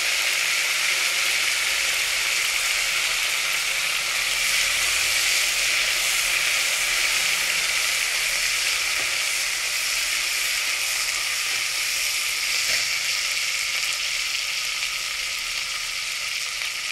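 Fresh mint leaves sizzling as they fry in hot oil with whole spices: a steady hiss that eases off a little toward the end.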